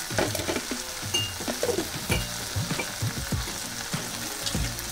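Boiled yam pieces sizzling as they are fried and stirred in a spiced onion-tomato masala in a pan, with irregular scrapes and knocks of the spoon against the pan.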